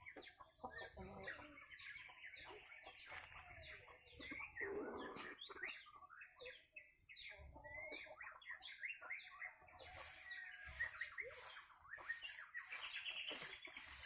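Birds chirping faintly with many quick, short falling notes, and a chicken clucking in the background. From about ten seconds in, a faint high pulsing about twice a second runs beneath them.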